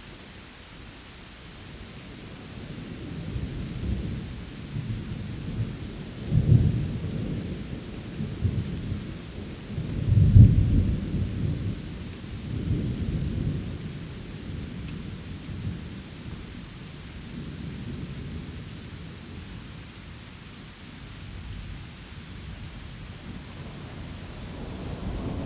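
Steady rain with thunder rumbling low, building from a couple of seconds in to two strong peaks in the first half, then dying down, with a new rumble starting right at the end.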